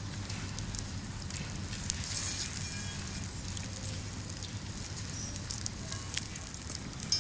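Wood campfire crackling with a steady hiss, likely including lard beginning to sizzle in a cast iron pan set into the flames for seasoning. Frequent sharp pops and clicks sit over the hiss.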